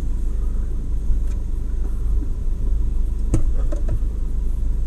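Steady low vehicle rumble, with a single sharp click about three and a half seconds in.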